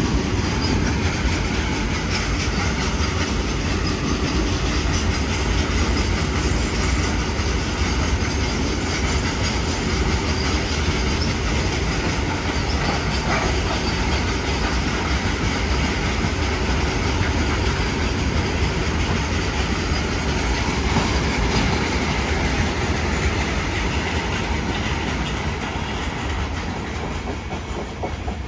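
Freight train of BOXNHL open steel wagons rolling past: a steady rumble of wheels on rail with clickety-clack knocks, easing off a little near the end.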